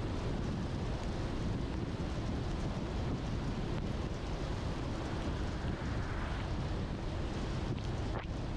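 Steady rumble and hiss of a car driving on wet roads in the rain, with a few faint ticks near the end.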